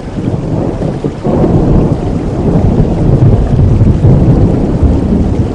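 Steady rain with a long roll of thunder that swells up suddenly about a second in and rumbles on loudly.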